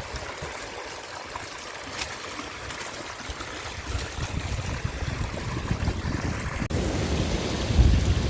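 Water running in a small garden stream, with strong wind buffeting the microphone. The wind rumble builds through the second half and is strongest near the end.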